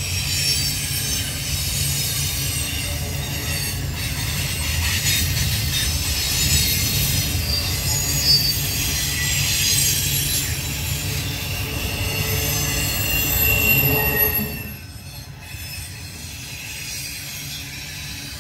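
Freight train cars rolling past with a steady low rumble and high-pitched wheel squeal from the rails. The sound drops off suddenly about fifteen seconds in, leaving a quieter rumble.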